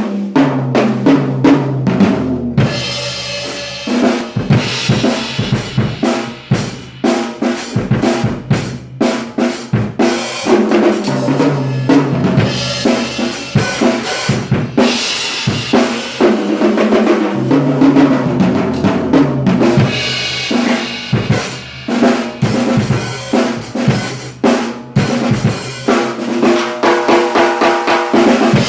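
A drum kit being played continuously, kick drum, snare and cymbals, captured by a Samsung Galaxy S7 Edge phone's built-in microphone at default settings. Dense beats run throughout, with several stretches where the cymbals ring out bright over the beat.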